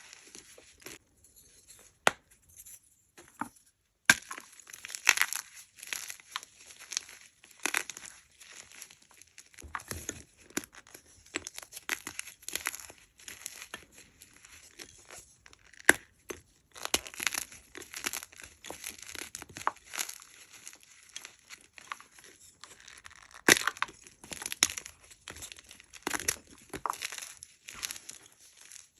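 Hard blocks of gym chalk being crunched and crumbled by hand: irregular crisp crackling and crunching, with occasional sharp snaps standing out.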